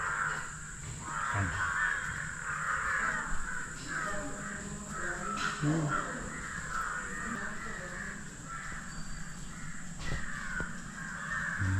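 A flock of crows cawing, with many calls overlapping in a continuous chorus.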